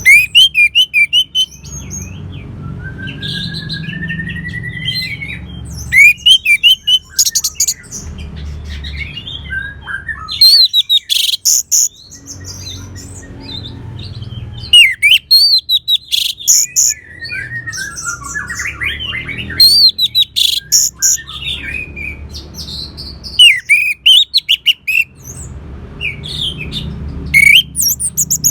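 Orange-headed thrush singing: loud, varied phrases of whistled notes, sweeping slurs and rapid repeated notes, delivered in bursts every three to four seconds. A steady low rumble sits under the song between phrases.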